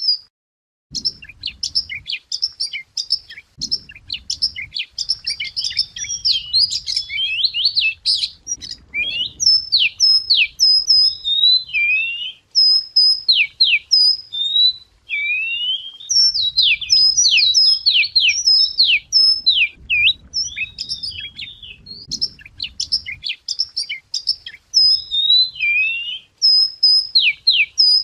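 Wagtail song: a fast, continuous run of varied whistled notes, sweeping slurs and twitters, with a looped phrase coming back several times. A faint low rumble sits under much of it.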